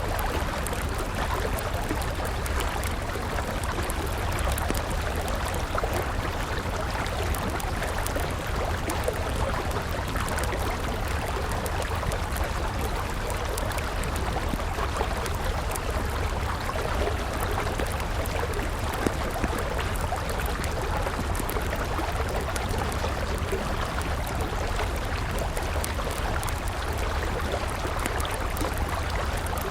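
River water running steadily, mixed with the crackle of a burning wood campfire, with a few sharper pops standing out, one about two-thirds of the way through and a couple near the end.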